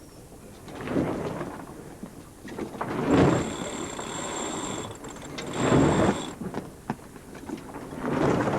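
Sea water surging and washing along a sailing yacht's hull in a swell, four rushing surges a couple of seconds apart over a steady hiss.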